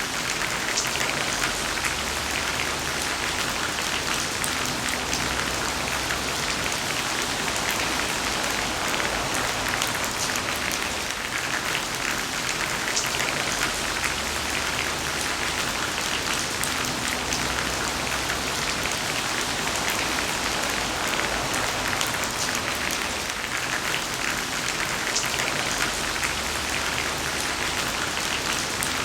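Heavy rain falling steadily: a dense, even hiss of many drops with fine pattering clicks, holding at a constant level.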